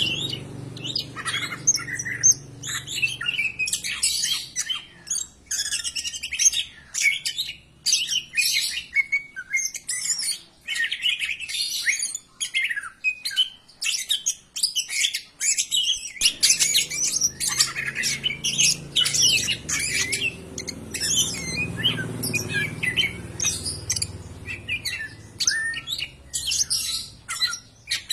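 Cucak ijo (greater green leafbird) singing a fast, unbroken, varied stream of high chirps, trills and whistles. This is the loud song that keepers play as a lure to get caged birds singing. A low rumble sits underneath at the start and again from about halfway on.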